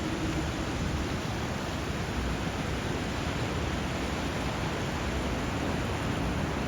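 Steady rush of flowing water, an even hiss with no swells or breaks.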